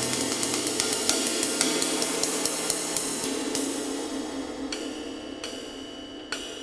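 Handmade 20-inch flat ride cymbal of B20 bronze, medium weight, played with a stick in a steady ride pattern of about three strokes a second. It then gets a few sparse last strokes while its wash dies away.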